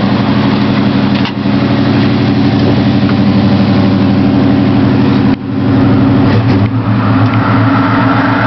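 1977 Chevrolet C10's carbureted engine idling through a Flowmaster exhaust soon after a cold start, still warming up on thick 20W-50 oil. A steady rumble, broken by two brief dips about a second in and about five seconds in, with the low tone shifting a little near the end.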